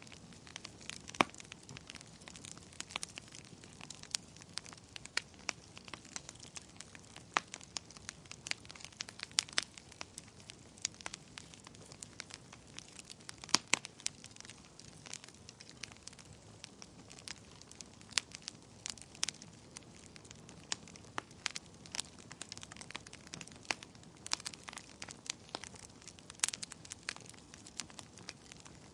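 Wood fire burning in a fireplace: a soft steady hiss with irregular crackles and sharp pops, a few pops standing out louder than the rest.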